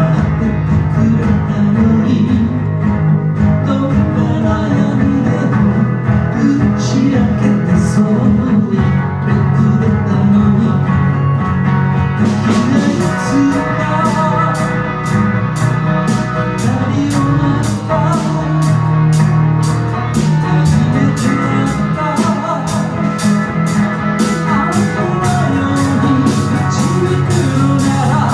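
Live band playing a song; a steady cymbal beat comes in about twelve seconds in.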